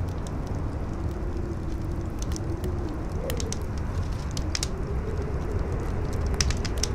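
Campfire crackling, with scattered sharp pops, over a steady low rumble of wind. A wavering wind howl rises briefly about three seconds in and again near the end.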